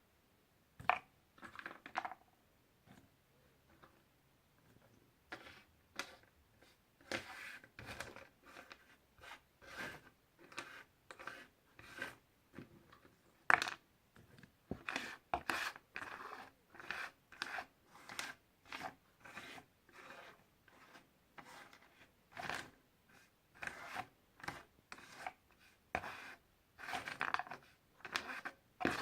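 Puzzle pieces being handled: a run of irregular short clicks and taps with scratchy rustling in between, getting busier after the first few seconds.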